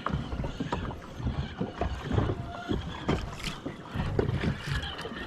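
Irregular knocks and water noise aboard a small fishing boat at sea, with a low rumble underneath.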